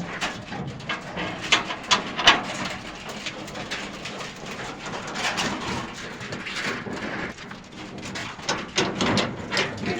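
Rustling with scattered sharp clicks and knocks from a nutria cage being handled and shut, the loudest knock about two seconds in.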